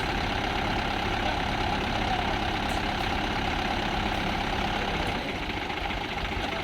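Tractor diesel engine running steadily at an even, low-speed throb, a little quieter from about five seconds in.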